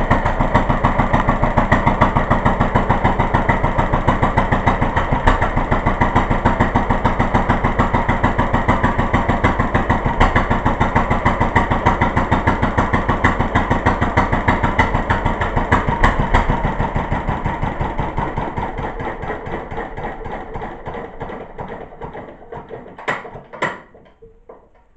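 1936 International Harvester LA single-cylinder, throttle-governed stationary engine running with an even, steady beat, then shut off: from about two-thirds of the way in its beats slow and fade as it coasts down, with a couple of sharp knocks just before it stops.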